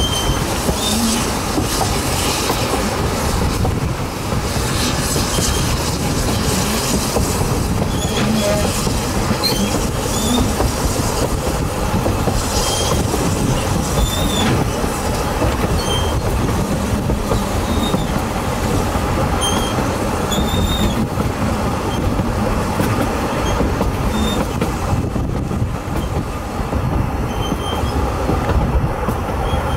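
Narrow-gauge passenger train running behind a steam locomotive, heard from an open carriage window: a steady rumble of wheels on rail, with short, high wheel squeals every second or two as the train rounds a curve.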